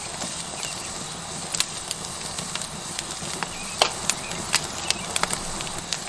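Tomahawk steak sizzling on a hot rock over a wood fire: a steady hiss of fat frying, broken by irregular sharp pops and crackles. The pops cluster in the second half.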